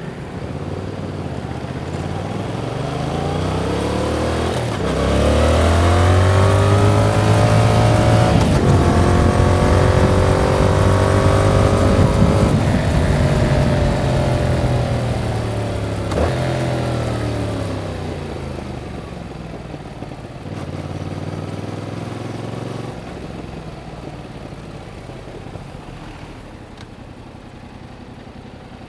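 2021 Yamaha MT-07's 689 cc parallel-twin engine through its stock exhaust, accelerating with the pitch climbing and breaking at upshifts about five and eight seconds in. It holds high revs for a few seconds, then the revs fall as the bike rolls off and slows, with a break near sixteen seconds, and it runs quieter and lower toward the end.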